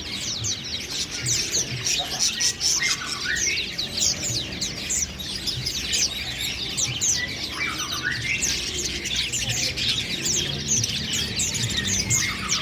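Budgerigar chattering: a continuous, dense stream of quick high chirps and warbles.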